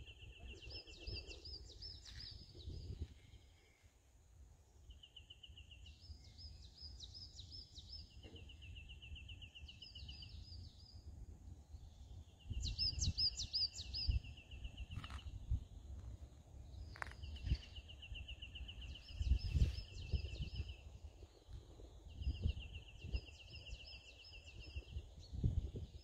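A songbird singing over and over, each phrase a steady trill followed by a burst of quick, higher notes, repeating about every five or six seconds. Low rumbling noise from wind and handling on the microphone runs underneath.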